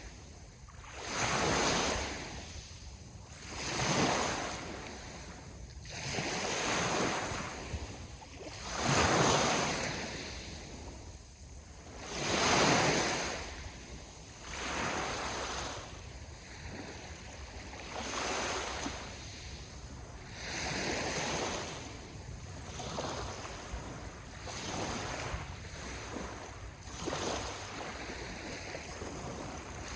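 Sea waves washing onto a shore, one after another about every two to three seconds, over a steady low wind rumble.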